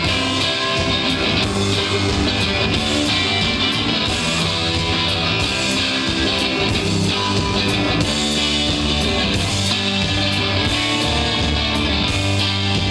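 Live rock band playing an instrumental break, with guitars and drums.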